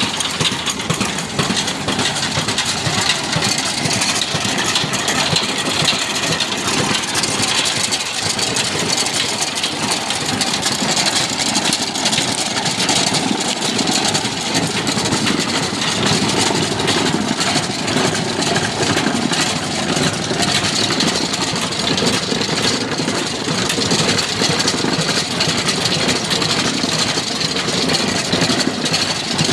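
Old black stationary engine running steadily, driving a chakki flour mill.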